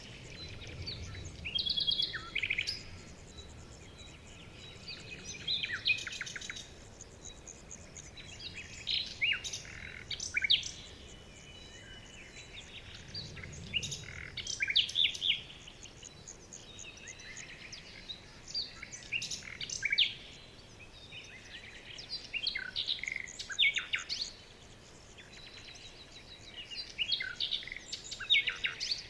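Songbirds singing, with quick chirps and short trills in a new phrase every three to four seconds over a faint steady background hiss.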